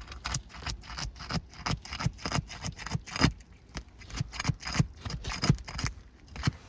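Metal shingle tool (snake tool) worked under an old asphalt shingle to break its sealant strip: a quick run of short scraping, crackling strokes, about three a second, that stops near the end.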